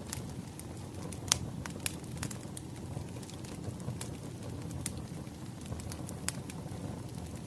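Wood fire crackling: a steady low rumble with scattered sharp pops and snaps, the loudest about a second and a half in.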